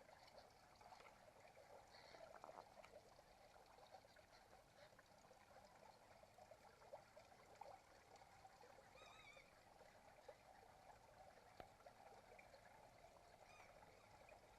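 Faint, dense chatter of a large flock of birds overhead: a steady crackle of many overlapping calls, with one clearer warbling call about nine seconds in.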